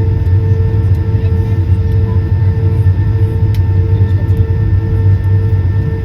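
Airbus A220-300 jet heard from inside the cabin: a steady low rumble from its Pratt & Whitney PW1500G geared turbofan engines and the airflow, with several steady engine tones above it. The pitch holds constant, with no spool-up or spool-down.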